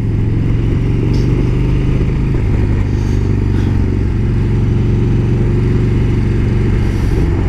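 Motorcycle engine running steadily at low road speed in slow traffic. Its even tone shifts slightly about two seconds in.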